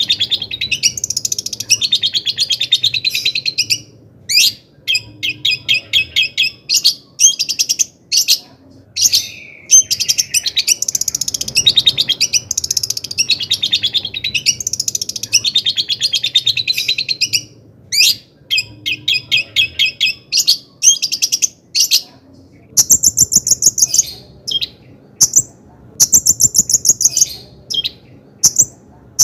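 Long-tailed shrike singing a fast, varied song: rapid trains of repeated chattering notes and harsher calls in phrases of one to three seconds, broken by short pauses.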